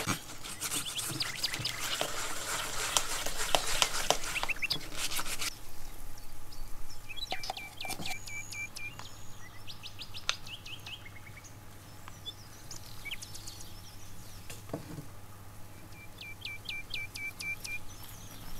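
Silicone spatula stirring and scraping cake batter in a bowl, with a busy run of scrapes and clicks that stops about five seconds in. In the quieter part that follows, a bird chirps in quick trills twice.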